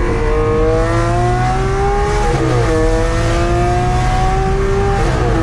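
Lamborghini Aventador SV's V12 with a Fi aftermarket exhaust, accelerating under load: the engine note climbs steadily, drops at an upshift about halfway through, then climbs again to another shift near the end.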